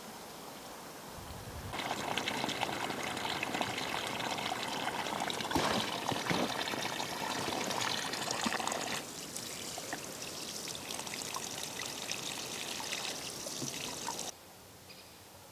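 Water pouring in a steady stream. It starts about two seconds in, eases off about halfway, and cuts off suddenly near the end.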